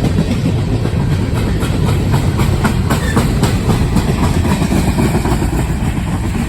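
Freight train's coke hopper cars rolling past at close range: a loud, steady low rumble with wheels clicking over rail joints.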